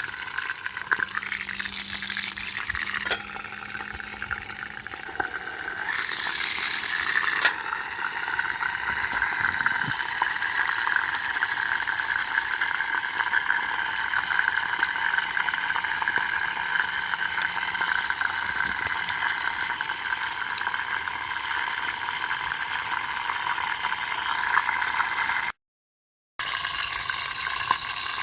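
Food sizzling and bubbling as it roasts over a campfire: a steady hiss with scattered crackles.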